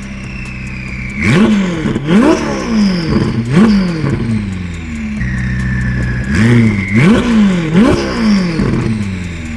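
Ferrari 488's twin-turbo V8 through an aftermarket IPE exhaust, idling and then revved in quick throttle blips. There are two sets of three sharp revs, and each rev falls back to a steady idle.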